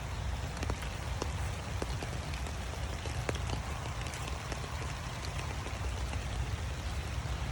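Steady rain falling, with scattered individual drops ticking close by, over a steady low rumble.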